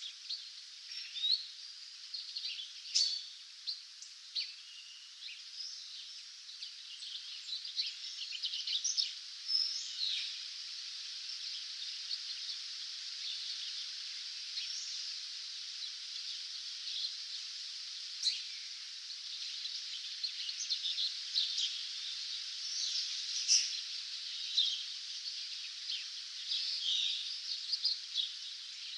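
Dawn chorus of several songbirds, a steady mix of chirps and short song phrases over a constant high hiss of background noise.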